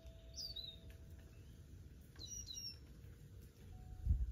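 Small birds chirping, with short high calls about half a second in and again a little past two seconds. A few low thumps come near the end.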